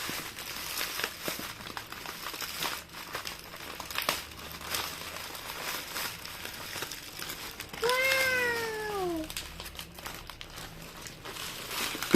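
Plastic packaging crinkling and crackling as slime packets are handled and opened. Near the end a child says a long, falling "wow".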